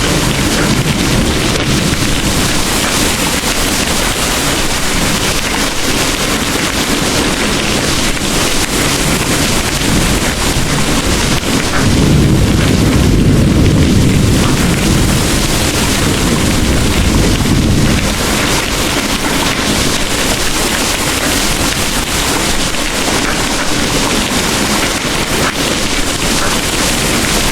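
Heavy rain pouring steadily, with a low rumble of distant thunder rolling through for several seconds about halfway in.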